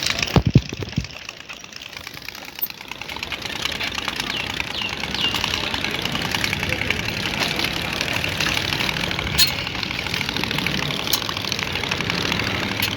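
Engine running through two freshly fitted aftermarket exhausts: a few loud low thumps in the first second, then a steady, rapidly pulsing exhaust note.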